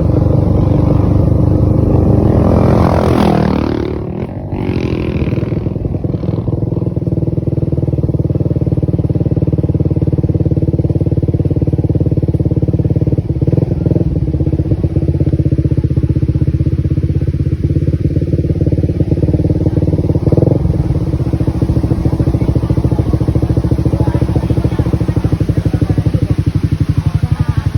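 Motorcycle engine running steadily under way, heard from on board, with a brief sweep in pitch and dip in loudness about three to four seconds in.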